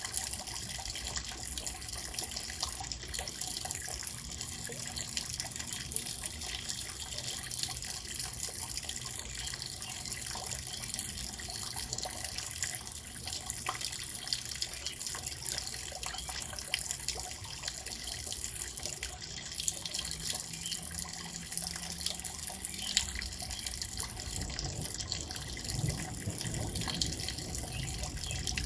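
Steady rain falling, an even hiss with many individual drops ticking and dripping. A low rumble rises near the end.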